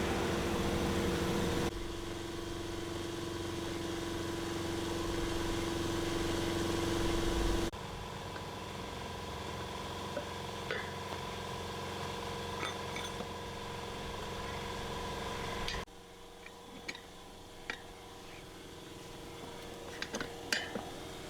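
Steady machine hum that changes abruptly a few times, with light metal clinks and taps in the last few seconds.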